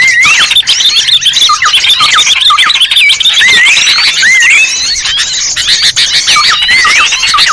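Lure call for small birds: a loud, continuous mass of overlapping high chirps and quick whistled up-and-down notes from many small birds calling together.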